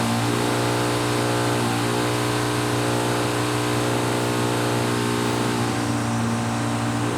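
Steady drone of a motor-driven machine, holding one even pitch and level.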